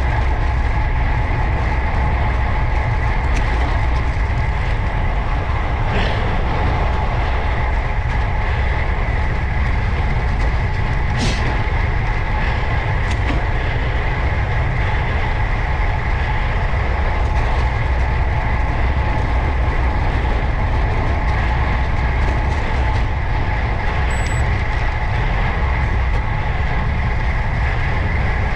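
Steady wind rumble and road noise on a bicycle-mounted camera while riding, with a steady high hum and a couple of brief clicks.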